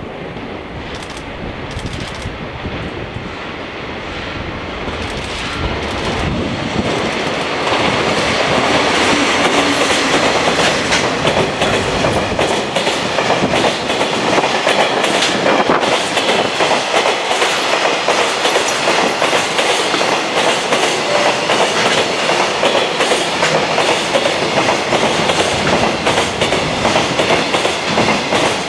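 Freight train running past hauled by a DD51 diesel-hydraulic locomotive: the locomotive's engine rumble builds as it approaches and passes. Then a long string of container wagons clatters by in a steady rhythm of wheels over rail joints.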